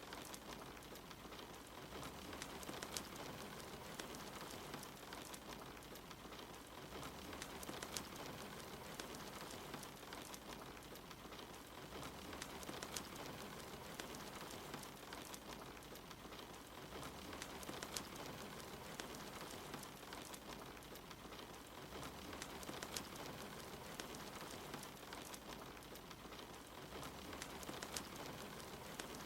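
Steady soft rain mixed with a crackling wood fire in a fireplace, with frequent small sharp crackles and pops scattered over the even hiss of the rain.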